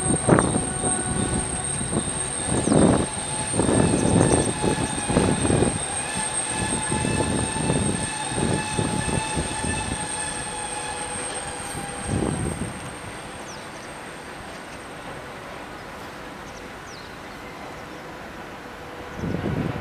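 Electric train running over the rail joints of a girder bridge: irregular wheel knocks over a steady multi-tone electric hum. The knocking dies away about twelve seconds in, leaving a fainter steady hum.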